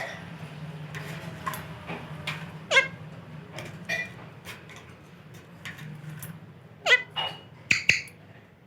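Pet parrot making several short, sharp calls, the loudest few near the end.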